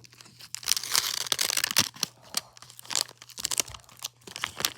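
The paper wrapper of a 35-year-old baseball card pack crinkling and tearing as it is pulled open by hand, in irregular rustles with sharp crackles.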